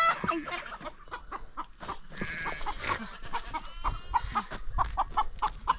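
Chickens clucking in many quick, short calls, with a couple of longer, higher calls mixed in.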